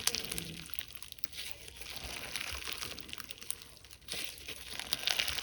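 Slime being squeezed and stretched by hand, giving a dense stream of small crackling and popping clicks that grows busier near the end.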